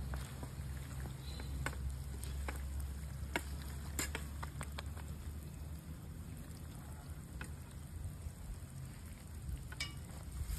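Food sizzling in a cast iron pan over a campfire, with scattered sharp crackles and pops over a steady low rumble.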